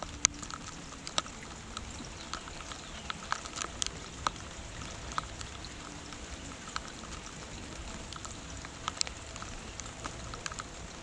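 Rain falling, with individual drops tapping sharply on a hard surface at irregular moments over a steady patter; the loudest drop comes just after the start.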